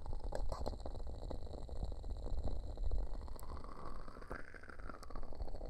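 Ear cupping on a binaural dummy-head microphone: hands pressing over and rubbing the mic's ears, giving a muffled low rumble and swishing. A few sharp little crackles from a wood-wick candle sound through it.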